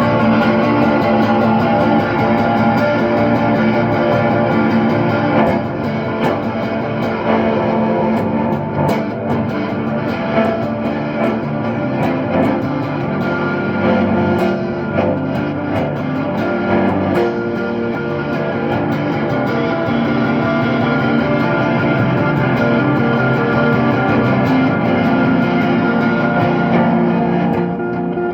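Electric guitar jam in an ambient, shoegaze style: loud, layered and sustained chords run together into a dense wash of sound.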